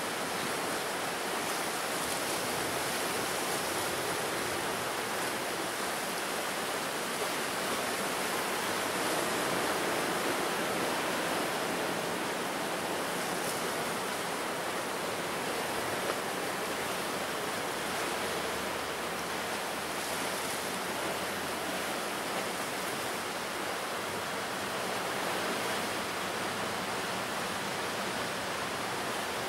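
Ocean surf on a rough coast: a steady wash of breaking waves that swells and eases slowly.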